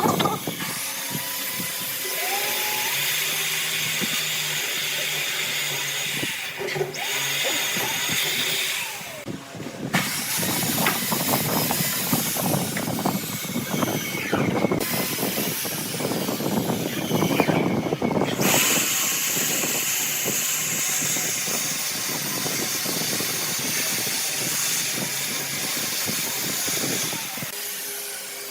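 Woodworking power tools running on wood, a steady machine noise with a dense stretch of rapid rough strokes midway through.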